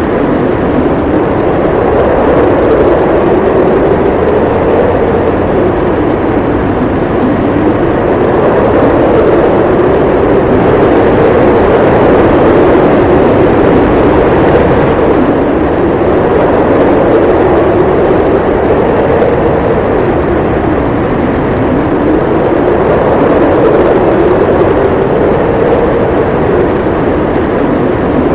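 Snowstorm wind howling without a break, a loud, continuous rush whose pitch slowly rises and falls every few seconds.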